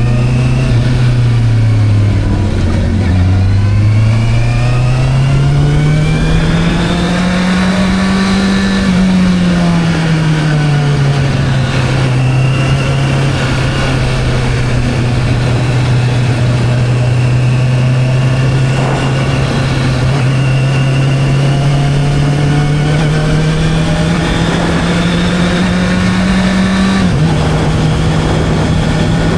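Motorcycle engine under way. Its pitch climbs over the first several seconds, eases back and holds steady for a long stretch, then climbs again and changes abruptly near the end, over a steady rush of wind noise.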